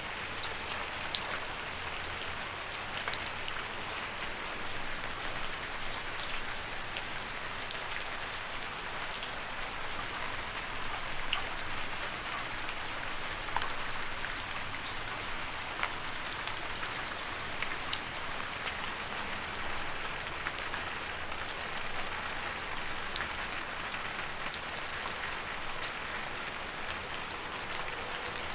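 Steady rain with a constant patter of drops, many close drops ticking sharply on a hard surface now and then.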